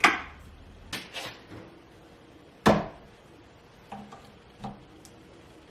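A few sharp knocks and clicks of hard objects being handled and set down, the loudest about two and a half seconds in.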